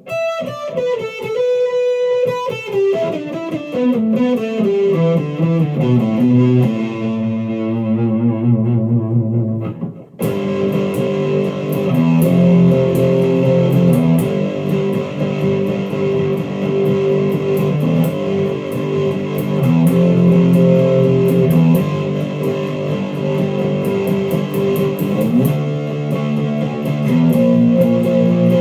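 Sire L7 Les Paul-style electric guitar played through the overdriven channel of a Fender Champion 100 amp. A descending run of notes comes first, then after a short break about ten seconds in, distorted held notes and chords.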